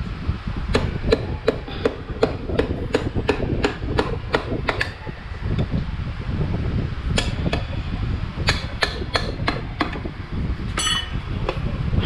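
A hammer striking repeatedly during work on a scooter's front wheel, about two to three blows a second for the first five seconds, then another run of blows after a short pause.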